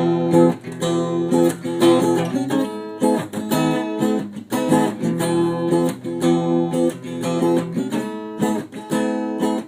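Acoustic guitar strummed in a steady rhythm, chords changing every second or so, played as an instrumental passage between sung lines of a song.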